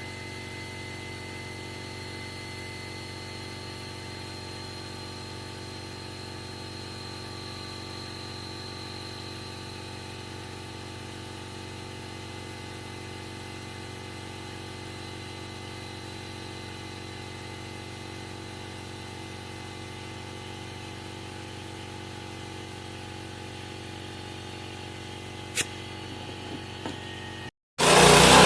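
Steady low mechanical hum with several constant tones. A single sharp click comes near the end.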